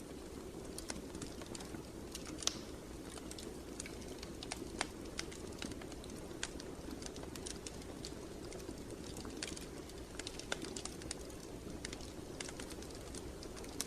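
Fireplace fire crackling: irregular sharp pops and snaps, often several a second, over a steady low rumble, with a louder pop about two and a half seconds in and another near five seconds.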